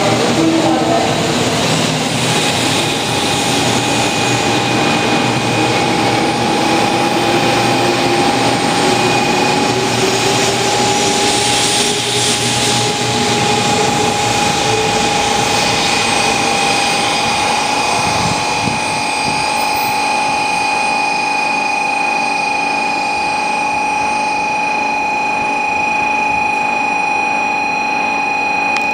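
100 Series Shinkansen train pulling slowly out of the platform on an out-of-service run to the depot. Its motors give a whine that rises slowly in pitch as it gathers speed, over the running and wheel noise of the passing cars. A steady high hum carries on after the noise thins near the middle.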